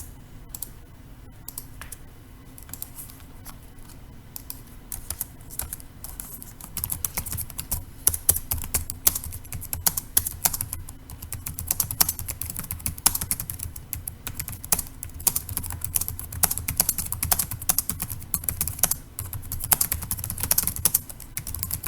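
Typing on a computer keyboard: rapid key clicks, sparse at first, then steady and dense from about six seconds in.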